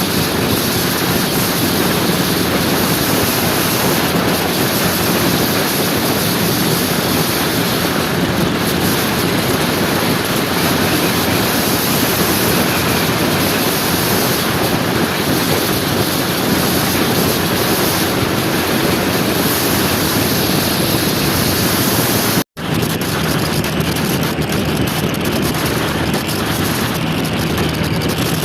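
Wind rushing over the microphone of a moving scooter, with a steady low engine hum and road noise underneath. The sound cuts out for an instant about 22 seconds in, then carries on.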